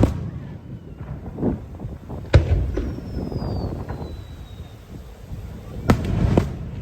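Aerial fireworks bursting: a sharp bang about two and a half seconds in and two more close together near the end, with a faint falling whistle between them.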